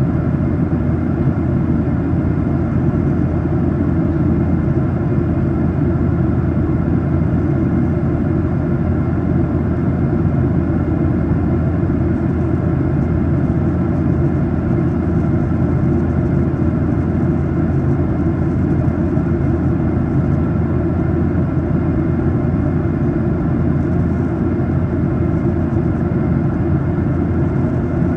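Steady cabin drone of a Boeing 737-800 in flight, from its CFM56 turbofan engines and the airflow over the fuselage: a low, even rumble with a few faint steady tones above it.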